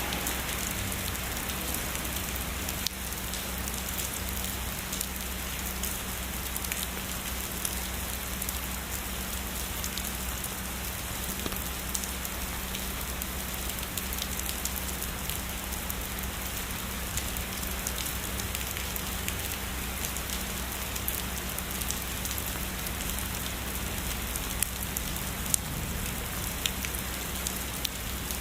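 Steady heavy rainfall, an even hiss with many sharp drop ticks and a few louder drips near the end.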